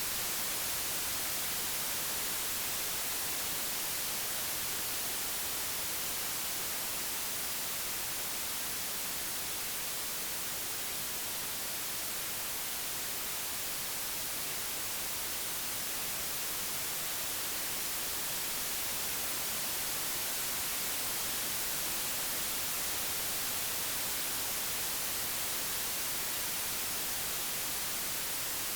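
Steady, unbroken white noise: an even hiss, brightest in the high frequencies, generated digitally in real time.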